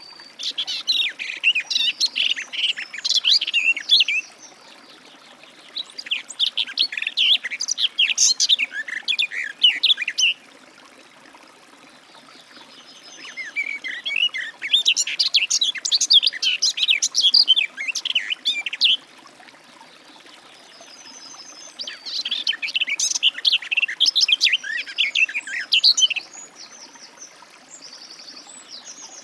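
Garden warbler singing: four long, fast, varied warbling phrases of about four to five seconds each, separated by pauses of a few seconds. Near the end comes a short run of evenly repeated higher notes.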